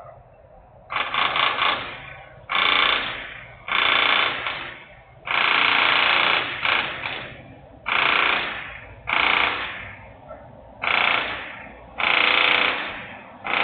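Loud mechanical noise from industrial equipment, coming in about ten sudden bursts roughly one every second and a half, each fading away over about a second.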